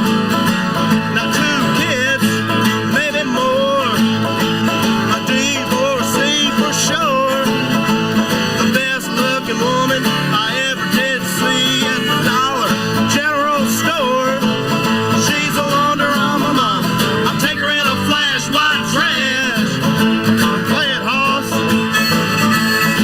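Acoustic band playing country/bluegrass-style music: acoustic guitars with a melody line that slides in pitch over them.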